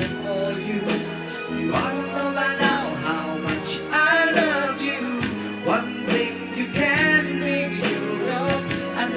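Live band music with a steady drum beat, and a voice singing over it in places.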